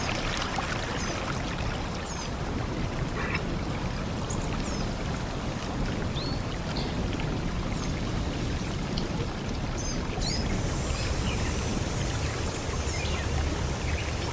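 Forest stream rushing steadily, with small birds chirping here and there. About ten seconds in, a thin, high steady hiss joins.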